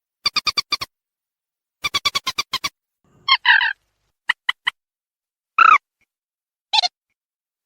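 Mandar sawah (a rail) calls played as a bird-lure recording: two runs of rapid, evenly spaced clicking notes, followed by harsher squawks and a few short single notes, with dead silence between calls.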